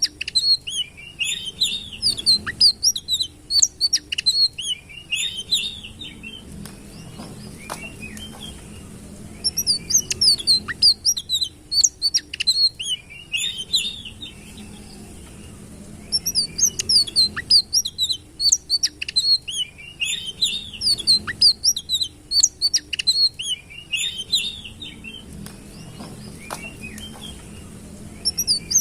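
Sitrun songbird singing: several-second bursts of rapid, high chirping and twittering phrases, broken by short pauses of a few seconds, over a faint steady low hum.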